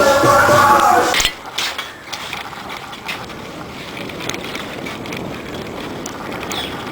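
Singing voices cut off abruptly about a second in. What follows is steady wind noise on the microphone with scattered light clicks and rattles from a bicycle being ridden.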